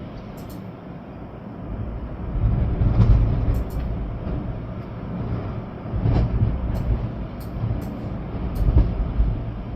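Storm wind gusting with a heavy low rumble of wind buffeting the microphone over the hiss of rain, swelling about three seconds in and again around six and nine seconds.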